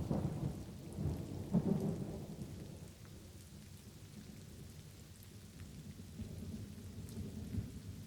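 Light rain falling with thunder rumbling: a low roll of thunder swells at the start and peaks between one and two seconds in, then fades, with a softer rumble rising again near the end.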